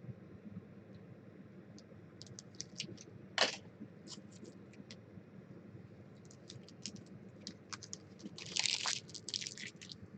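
Trading card packs and packaging handled on a table: a run of light clicks and ticks, a brief scrape about a third of the way in and a louder rustling scrape near the end.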